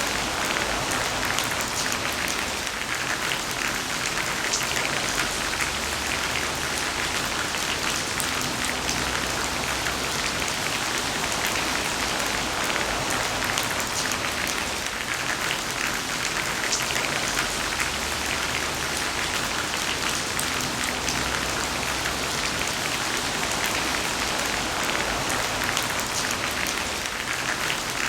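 Heavy rain falling steadily, a dense even hiss of drops hitting surfaces with many small distinct drop ticks.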